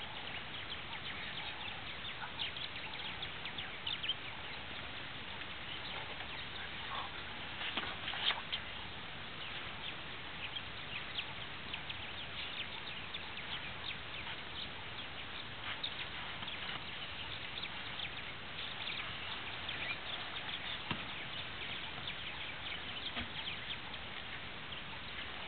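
Birds chirping and calling in short, repeated bursts over a steady hiss of bush ambience.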